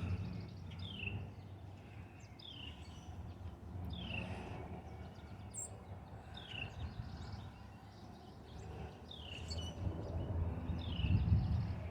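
A wild bird calling, repeating a short chirp that falls in pitch, six or seven times at uneven gaps of a second or two, over a low steady outdoor rumble.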